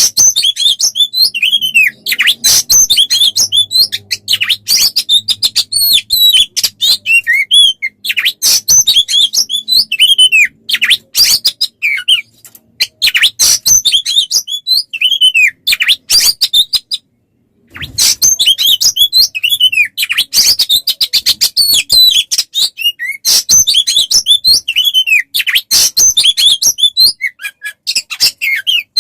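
Songbird song: a fast, continuous stream of varied chirps, clicks, trills and short whistled glides, with a brief break a little past halfway.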